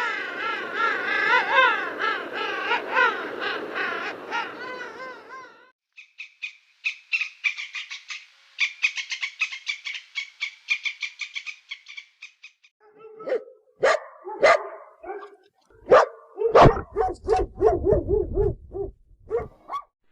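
Animal calls in three separate stretches: a warbling call that wavers up and down in pitch for about six seconds, then a fast high chattering rattle, then a run of short, sharp calls over the last seven seconds.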